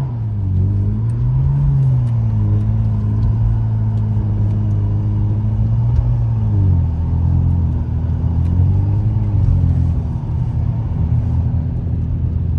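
BMW 335i's turbocharged straight-six engine running under way, its pitch dipping and rising as the revs change, with a clear drop in revs about six and a half seconds in. A low road rumble runs beneath it.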